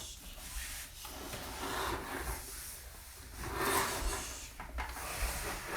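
Toy boat being pushed along a surface: a rubbing, scraping noise that swells and fades a few times.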